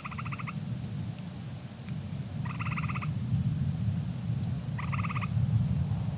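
Low rumble of distant thunder building up, with a treefrog giving three short, fast-pulsed trills about two and a half seconds apart.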